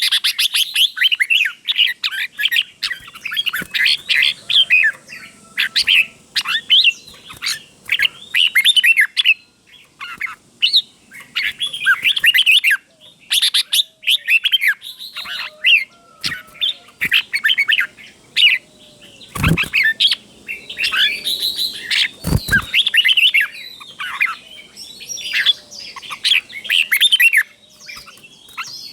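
Red-whiskered bulbul singing in quick, chirpy warbled phrases with short pauses between them, its song in the doubled (เบิ้ล) style that keepers prize. Two sharp knocks come about two-thirds of the way through.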